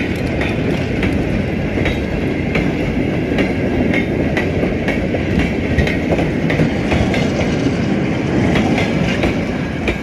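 A train of short four-wheeled goods wagons rolls past close by: a loud, steady rumble, with the wheels clacking over the rail joints at a regular beat of one to two clacks a second.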